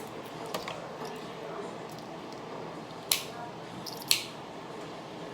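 Seafood shell cracking: two sharp cracks about a second apart, with small clicks of eating between them.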